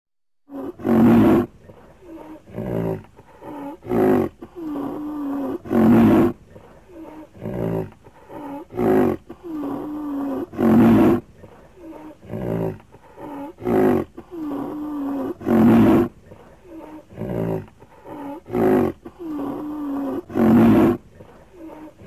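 Creature sound effect voicing the extinct giant rhinoceros Elasmotherium: a loud roar about every two to three seconds, with quieter moaning calls that bend in pitch between them.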